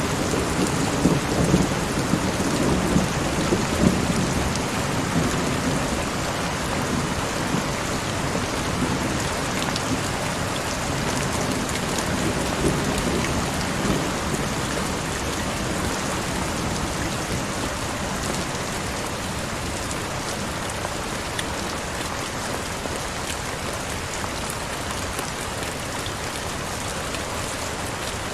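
Heavy rain falling steadily. A low rumble of thunder is heard in the first few seconds and dies away, leaving the rain alone.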